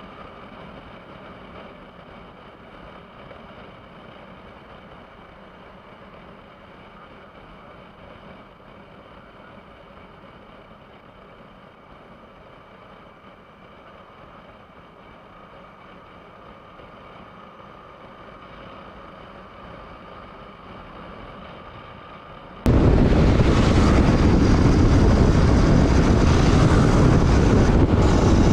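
Yamaha R15 V4 motorcycle cruising on a highway: a faint, steady engine and road hum, then about three-quarters of the way through a sudden jump to loud wind rush on the microphone.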